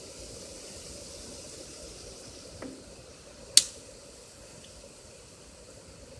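Steady hiss with a faint knock a little before halfway and one sharp click just past halfway.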